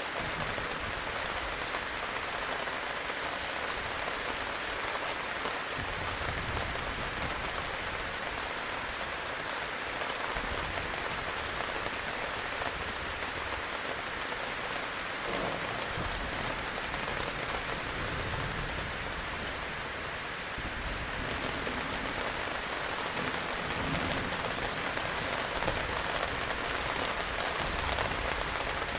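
Heavy rain falling steadily, a dense even hiss of drops on a hard surface, with a few faint low rumbles now and then.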